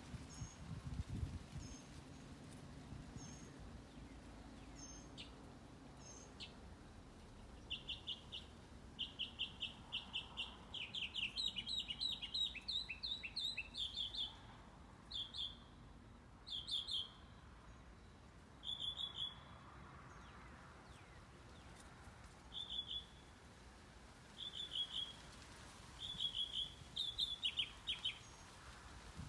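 Songbird chirping: a few faint high chips at first, then quick series of short, high chirps in repeated bursts of a second or so, from about a quarter of the way in until near the end.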